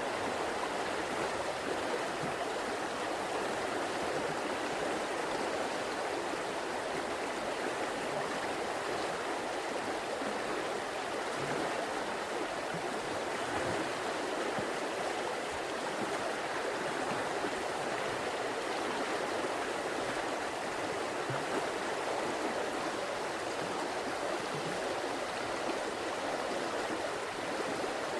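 River water flowing and babbling steadily over rocks, an even rushing murmur with no breaks.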